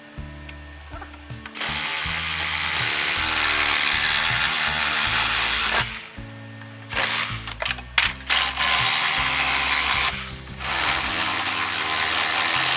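Electric chainsaw cutting through bamboo in two long runs of rasping noise, with sharp cracks and snaps between the cuts. Background music plays underneath.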